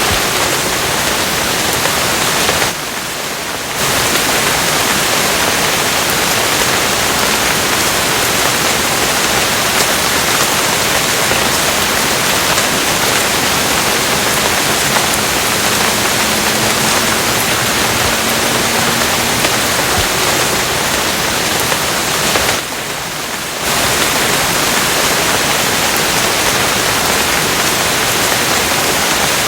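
Steady heavy rain, an even hiss with no separate drops standing out, that briefly drops a little quieter for about a second twice.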